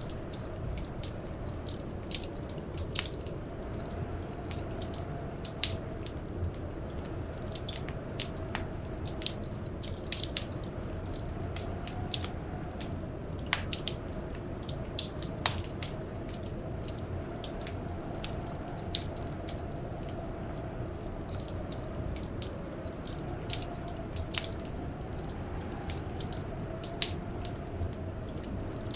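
Wood fire crackling in a fireplace: many irregular sharp pops and snaps over a steady low rumble. A faint wavering whistle of blizzard wind runs underneath.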